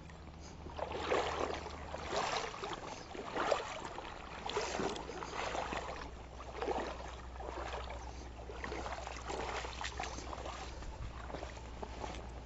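Water swishing and splashing in a steady rhythm, about one stroke a second.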